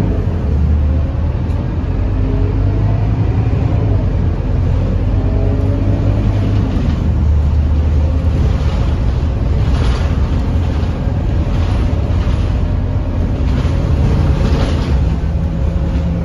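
Scania K230UB city bus's diesel engine under way. Its pitch rises and falls repeatedly over the first several seconds as the bus pulls away and changes gear, then it runs more steadily.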